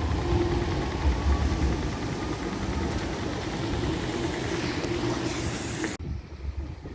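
Tram running on street track: a steady rumble and rolling noise with a faint whine, ending abruptly about six seconds in.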